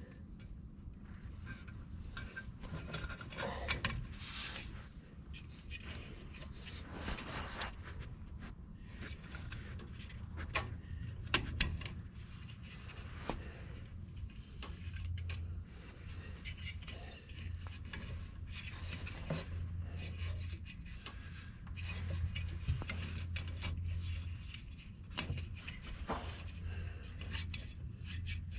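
Small metal clicks, scrapes and rubbing from hands working a spring retaining clip on a tractor headlight bulb, with a few sharper clicks, the loudest about 4 and 11 seconds in, over an intermittent low hum.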